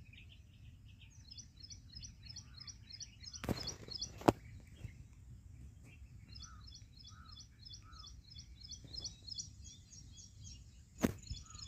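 Birds chirping faintly in the background, in quick runs of repeated high chirps. A couple of sharp clicks come a few seconds in, and another near the end.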